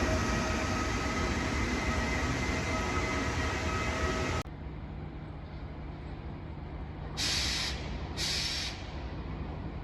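A train running through the station, a dense rumble with several steady whining tones, cut off suddenly about four seconds in. Then a quieter steady low hum with two short hisses about a second apart near the end.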